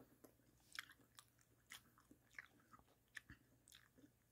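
Faint chewing of a mouthful of meatloaf: soft, irregular mouth clicks about two a second.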